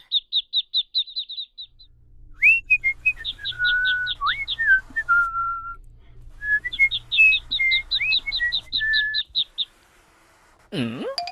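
Whistling: short held notes with quick upward swoops, laid over runs of rapid high-pitched chirping at about eight chirps a second. Near the end a long rising whistle-like glide begins.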